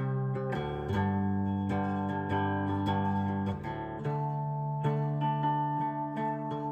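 Background music: an acoustic guitar strumming sustained chords, changing chord about half a second in and again around four seconds in.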